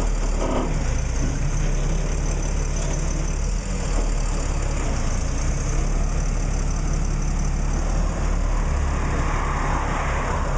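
Motor vehicle engine idling steadily, a constant low hum, with a swell of rushing noise near the end.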